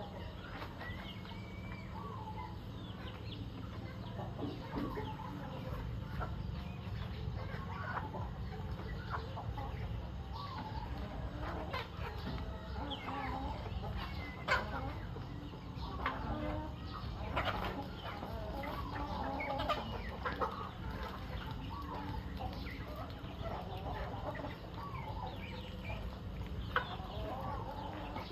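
A flock of chickens clucking, with many short, overlapping calls throughout and a sharp tap about halfway through, over a steady low rumble.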